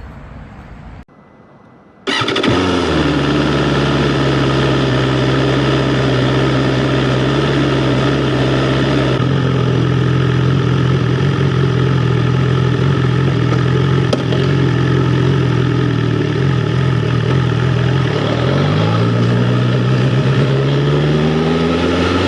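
BMW S1000R inline-four motorcycle engine starting up suddenly about two seconds in, then running at steady revs. Near the end the revs dip and climb again.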